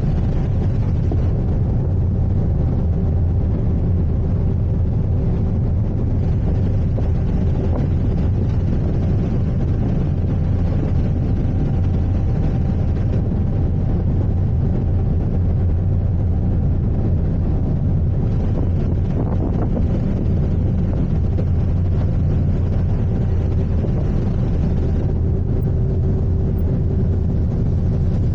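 Steady low rumble of an icebreaker sightseeing ship underway, with a faint constant hum from its machinery.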